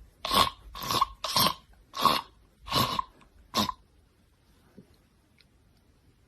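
A pet giving a run of about six short, raspy coughs, roughly one every half second, which stop after about four seconds.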